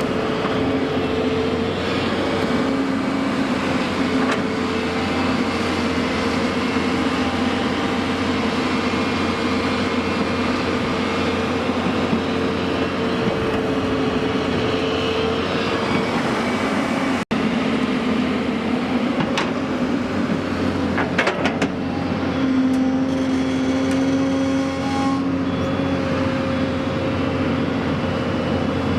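A heavy diesel vehicle's engine running steadily under a constant whine, with an instant's dropout about two-thirds of the way through.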